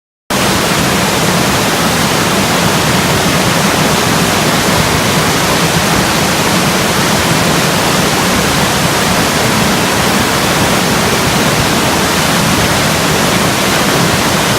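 Waterfall rushing, a loud, steady sound of falling water that cuts in abruptly right at the start.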